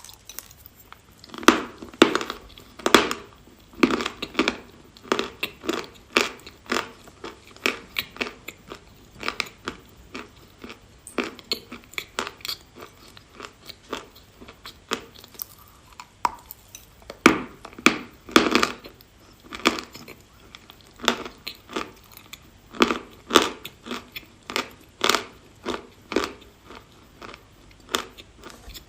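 A person biting and chewing dry chalk close to the microphone: a steady run of sharp crunches, one or two a second, with louder bites in clusters.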